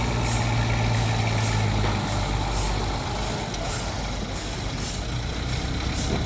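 Heavy machinery running steadily. A low hum eases off about two seconds in, and a faint high hiss repeats at a regular beat.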